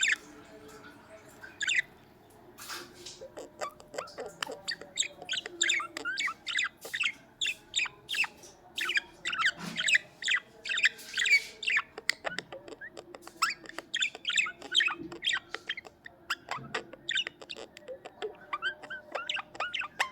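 Budgerigars chattering: a quick, busy run of short high chirps that becomes dense about three seconds in.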